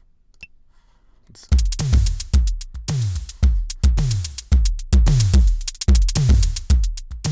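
Programmed drum-machine beat played back from Soundtrap at about 110 BPM: a deep kick drum that drops in pitch on each hit, with busy hi-hat ticks above, kicking in about a second and a half in after a few faint clicks.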